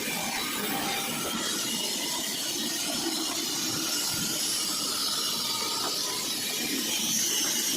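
Sawmill saw cutting through dry kikar (acacia) wood: a steady, unbroken cutting noise that holds at one level throughout.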